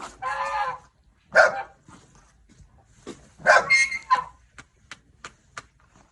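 A dog vocalising in three separate calls: a drawn-out one, a short one about a second and a half in, then a longer one, followed by a few sharp clicks.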